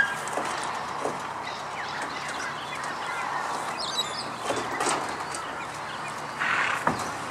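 Outdoor ambience with birds chirping now and then, a sharp click at the start and a short rustling burst near the end.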